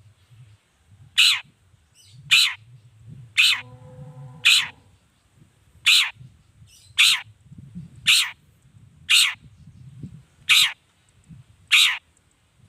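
Long-tailed shrike (cendet) giving a series of about ten loud, harsh, scratchy calls, roughly one a second, in the agitated 'gacor' calling used to provoke other shrikes.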